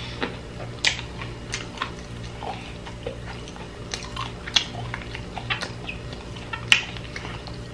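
Close-miked chewing of a caramelized-sugar-coated fried snack, with short sharp mouth clicks scattered irregularly throughout.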